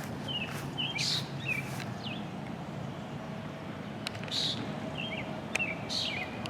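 Birds chirping: short quick chirps and brief raspy calls every second or so, over a low steady background noise.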